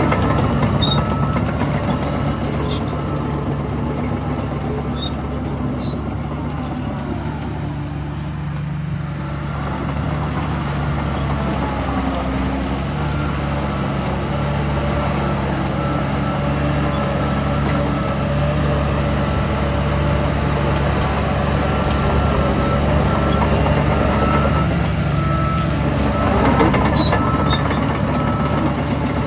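Heavy diesel earthmoving machinery running steadily, with the engine note swelling and gliding in pitch around the start and again near the end.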